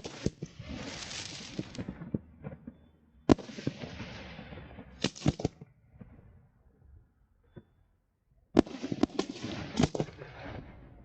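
Fireworks display: sharp bangs and crackling bursts in three clusters, the last one coming after a lull of a couple of seconds.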